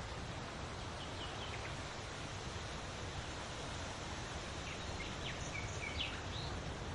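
Steady wind blowing with a low rumble, and a few short bird chirps about a second in and again near the end.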